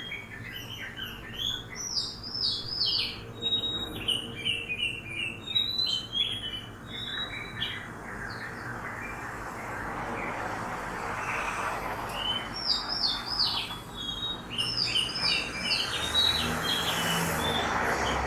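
Songbirds chirping in quick, repeated runs of short downward-sliding notes, in two long bouts a few seconds apart, over a steady background of city traffic noise that swells twice.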